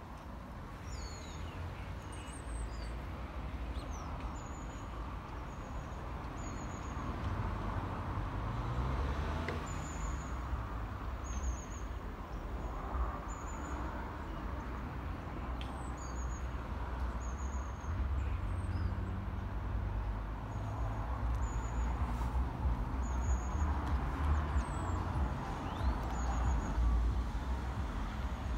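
Small birds chirping in short, high calls again and again over a steady low rumble that swells in the second half.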